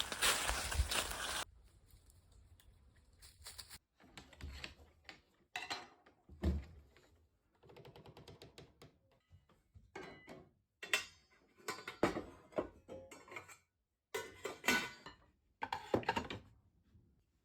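A string of separate short knocks, clunks and rustles of things being handled and set down, with a quick rattle about halfway through. It opens with a loud noisy rustle that cuts off suddenly in the first second and a half.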